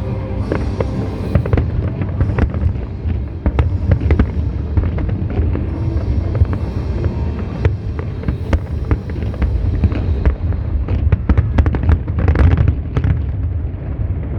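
Fireworks going off: a string of sharp bangs and crackles, densest about eleven to thirteen seconds in, over a steady low rumble and background music.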